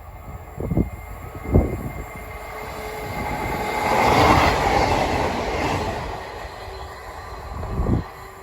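A train passing over the crossing, its rail noise swelling to a peak about four seconds in and then fading away, with a few short low thumps near the start and one near the end.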